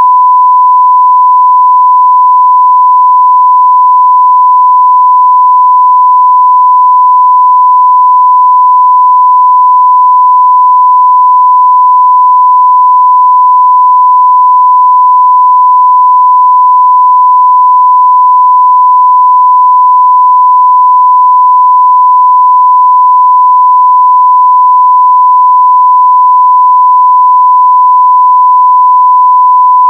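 A continuous 1 kHz sine-wave test tone at full level (0 dB), steady and unchanging.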